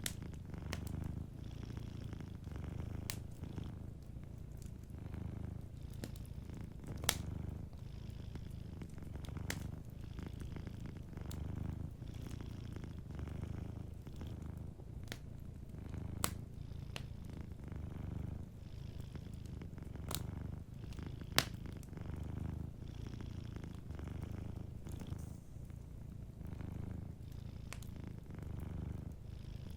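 Domestic cat purring steadily, the purr swelling and fading with each breath about every two seconds. Over it, a wood fire in a fireplace gives occasional sharp pops and crackles, the loudest about two-thirds of the way through.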